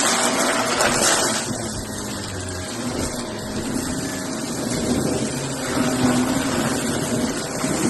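Shark vacuum cleaner running steadily. About a second and a half in its sound turns duller and a little quieter, brightening again near six seconds.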